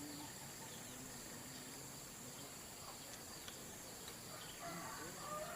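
Steady high-pitched insect drone, like crickets, with a few faint short bird chirps.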